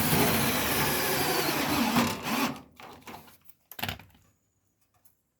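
Power drill-driver running as it drives a screw into a sheet-metal body panel, stopping about two and a half seconds in. A single short knock follows about a second later.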